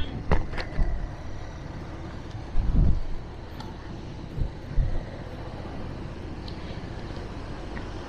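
Steady outdoor road and traffic noise, with several short low thumps on the microphone in the first half, the largest about three seconds in.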